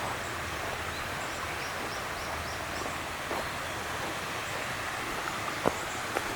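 Steady outdoor rushing noise. About a second and a half in, a small bird sings a quick run of about seven high, repeated notes. A few sharp clicks sound, the loudest near the end.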